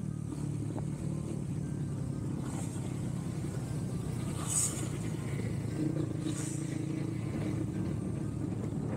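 Motorcycle engine running steadily at a low, even hum, with two short hisses partway through.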